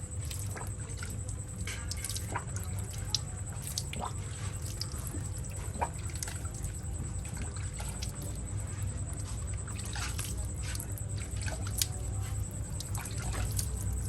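Water dripping and trickling in small irregular drops as a 1:24 scale model bus is washed, over a steady low hum.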